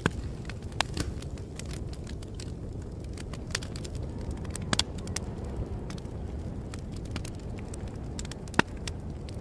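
Wood fire crackling, with irregular sharp pops over a steady low rumble. A few louder snaps come at the start, near the middle and near the end.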